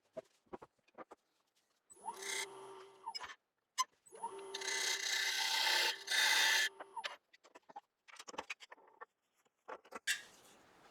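Wood lathe turning a black locust bowl blank while a turning tool cuts into the wood, cutting the shoulder: a short cut of about a second, then a longer one of about three seconds, each over the lathe's steady hum and a thin high whine. A few light clicks of handling come first.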